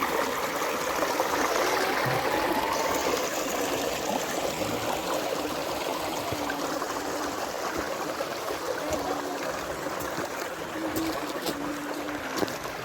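Spring-fed stream flowing steadily, a continuous rush of running water.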